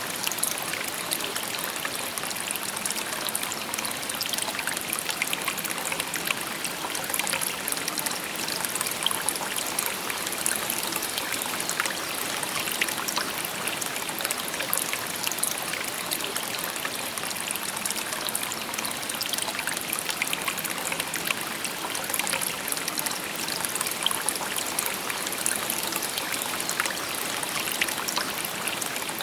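A shallow river babbling and trickling over stones, a steady splashing hiss with many small bright droplet sounds.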